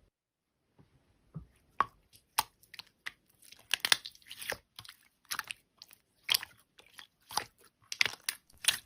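Slime being pressed and worked by hand: a string of sharp, irregular crackles and pops that begins about a second and a half in.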